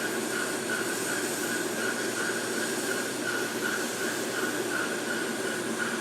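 Hot-air rework station running: a steady rush of air from its nozzle with a faint, even whine from the blower, as it heats microprocessor solder joints on a circuit board to reflow them.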